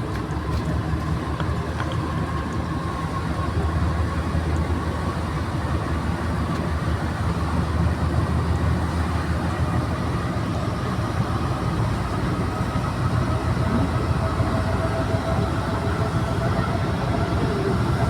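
Santiago Metro NS-93 rubber-tyred train running between stations, heard from inside the car: a steady rumble with a faint motor whine that slowly rises in pitch over the second half.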